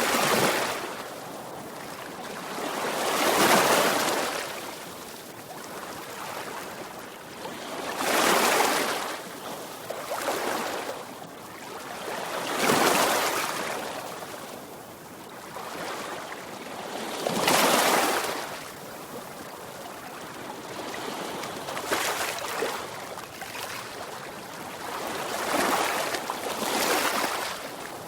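Sea waves breaking on the shore. Each wave swells into a rush of surf and then fades to a softer wash, a new wave every four to five seconds.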